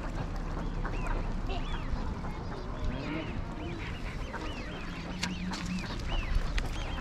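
A large flock of wild ducks calling: many short overlapping calls, among them rising-and-falling whistles, over a low rumble.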